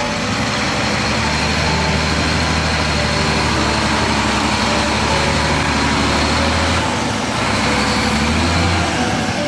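Heavy truck's diesel engine running steadily, its pitch shifting briefly around seven seconds in and again near the end.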